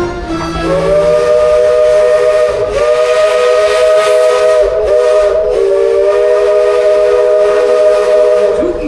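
Steam locomotive whistle sounding a chord of several tones at once, blown as a series of long blasts with brief breaks between them for most of eight seconds.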